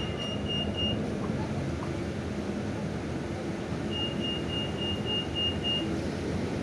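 Inside a Scania K320 UA city bus: steady engine and road noise, with two runs of quick high electronic beeps, about three a second, one at the start and another lasting about two seconds near the end.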